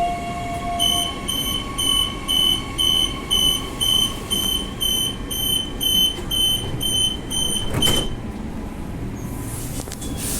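Transperth electric train's door-closing warning beeper sounding, a high beep about twice a second, some fifteen times, over the train's steady hum. About eight seconds in the beeping stops with a thud as the sliding doors shut.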